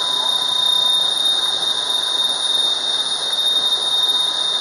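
The yacht's twin MAN 800 hp diesel inboards running steadily under way: a constant rush with a steady high-pitched whine laid over it.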